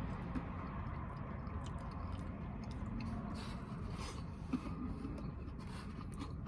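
A person chewing a hot mouthful of pizza tots: faint mouth and chewing sounds over a low steady background hum, with a small click about four and a half seconds in.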